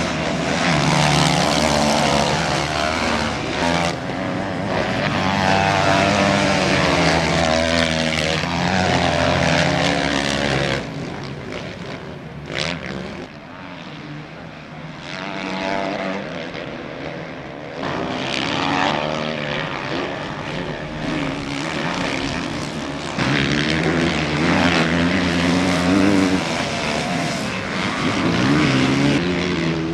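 Several motocross bikes racing past with engines revving hard, their pitch climbing and dropping with each throttle opening and gear change. The engines fade for a few seconds about halfway through, then come back loud.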